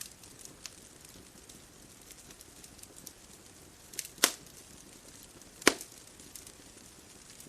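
Bonfire crackling: scattered small crackles over a soft steady hiss, with two loud pops about four and five and a half seconds in.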